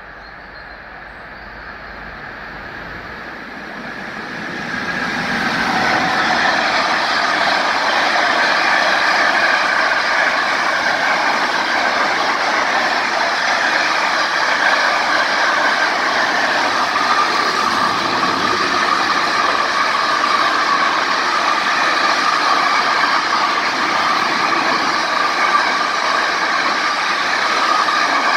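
Container freight train passing over a level crossing at speed: wheels and wagons rumbling and rattling on the rails. It grows louder over the first five or six seconds as the train arrives, then holds a steady loud clatter as the container wagons go by.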